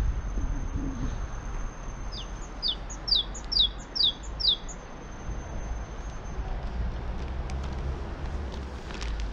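A small songbird gives a quick run of six short, downward-slurred chirps a few seconds in, over a steady low rumble of wind.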